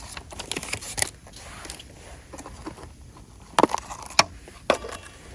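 A few short, sharp clicks and knocks of small objects being handled, two of them louder a little past the middle.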